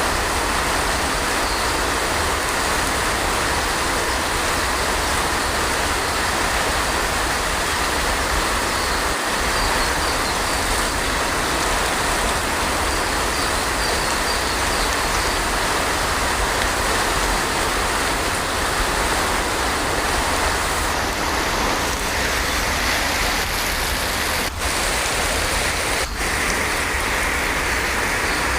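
Heavy rain falling steadily, a dense, even hiss with no let-up, broken only by two very brief dips in level near the end.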